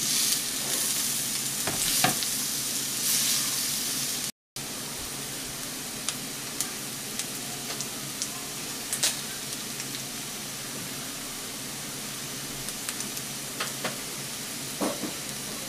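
Meat sizzling on a hot cast iron grill pan, with a few clicks of tongs against the pan as pieces are lifted off. After a brief cut, green beans frying in a small cast iron skillet: a steady sizzle with scattered pops.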